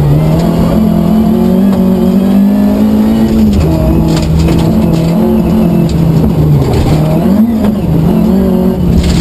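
Rally car's engine heard from inside the cabin, pulling hard with its pitch climbing for the first few seconds. The pitch drops sharply about three and a half seconds in, then rises and falls with the throttle for the rest.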